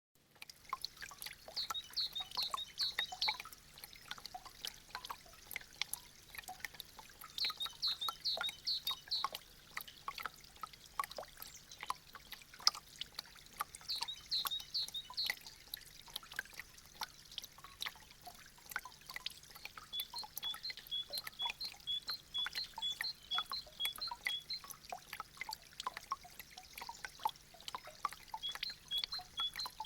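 Meltwater dripping from icicles: a dense, irregular patter of small drops. A bird sings short high chirping phrases three times, and a run of evenly spaced high chirps follows in the second half.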